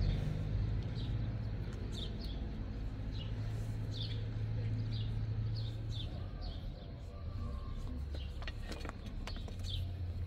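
A small bird chirping again and again, short falling chirps every half second or so, over a low steady rumble. A few sharp clicks come near the end.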